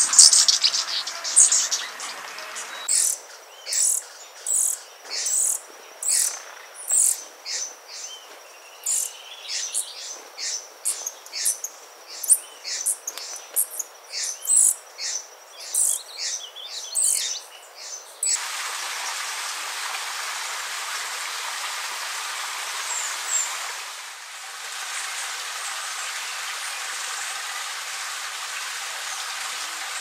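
A small bird gives a long series of short, high chirps, about two a second, over a thin steady high tone. About two-thirds of the way through the chirping stops and an even, steady hiss takes over.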